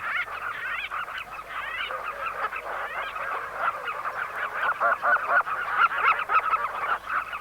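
A colony of southern carmine bee-eaters calling all together: a dense chorus of many short, overlapping calls.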